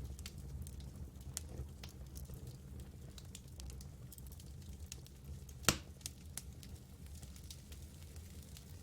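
Campfire burning: irregular crackles and small pops from the burning wood, with one loud sharp pop about two-thirds of the way through, over a steady low rumble.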